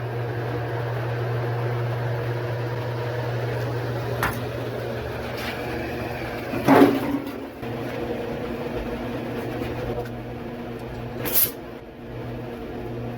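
A steady machine hum runs throughout, broken by a couple of knocks, a louder clatter about seven seconds in, and a short hiss near the end.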